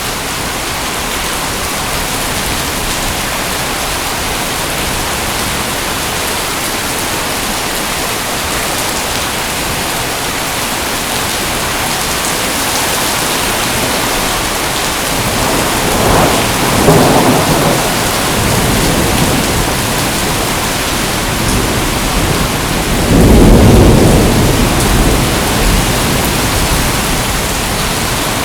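Steady heavy rain, with two rolls of thunder: one a little past halfway and a louder, deeper one near the end.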